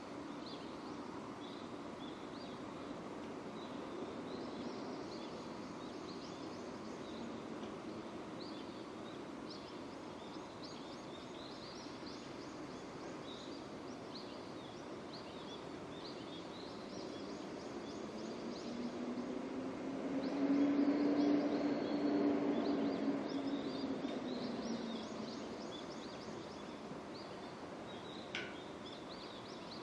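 Steady rain falling, with small birds chirping now and then. About twenty seconds in, a louder low humming swell rises and fades, like something passing by. There is a single click near the end.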